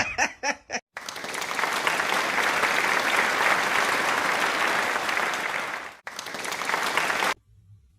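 A dog's short high yips in the first second, then a dense, even rush of noise like applause for about six seconds, broken briefly near six seconds and cutting off suddenly.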